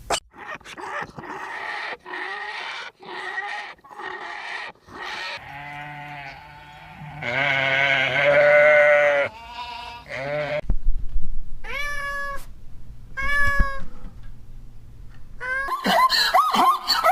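Cat meowing repeatedly: rough, broken cries at first, then a long drawn-out meow, two short meows, and a busier run of calls near the end.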